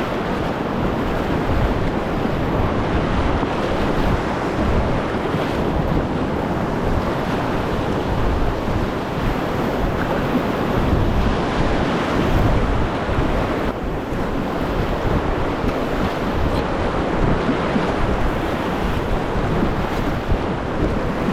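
Rushing whitewater of river rapids, a loud steady wash of water, with wind buffeting the microphone.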